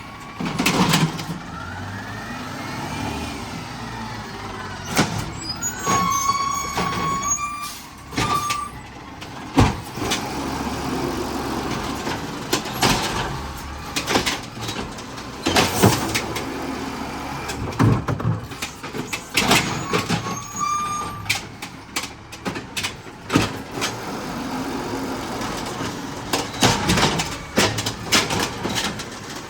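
Garbage truck at work: the engine runs with many sharp bangs and clanks. Twice there is a short high squeal.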